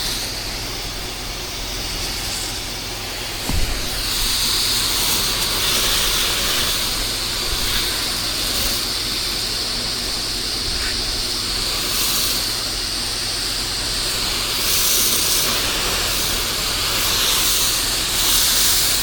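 Pressure washer spray hissing steadily as water rinses down a house wall, with a steady low machine hum underneath. A brief knock sounds about three and a half seconds in.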